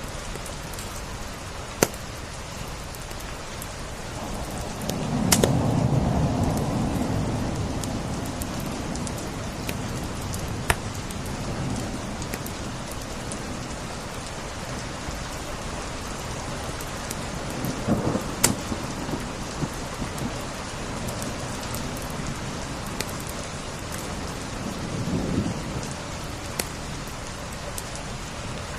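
Steady rain falling, with scattered sharp pops from a crackling wood fire. A deep low rumble swells up about five seconds in and fades over a few seconds, and weaker rumbles follow near the end.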